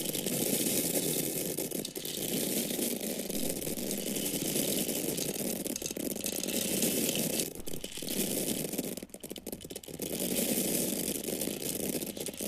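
Dry corn kernels pouring in a steady stream of many small hits, a dense rattling patter. It thins out about seven and a half seconds in, nearly stops around nine seconds, then picks up again.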